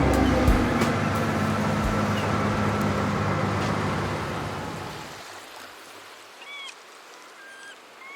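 An engine running steadily over a rushing, wave-like noise, fading out over the first five seconds. Then come faint, short chirping bird calls, repeated several times.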